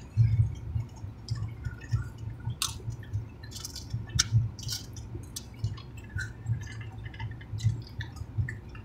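Close-miked chewing and lip-smacking of mouthfuls of food: wet, squishy mouth sounds with scattered sharp clicks.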